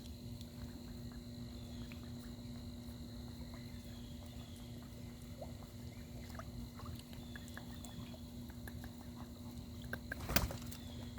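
A goose's bill tapping and nibbling at the camera: scattered faint clicks over a steady low hum, with one sharp knock about ten seconds in.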